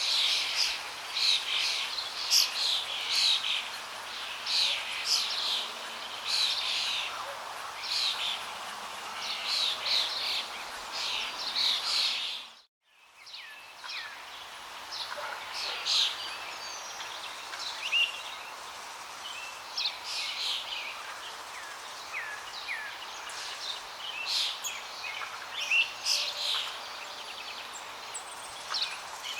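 Many small birds chirping and calling over the steady rush of flowing water. About halfway through, everything briefly fades out to near silence and comes back, like an edit join.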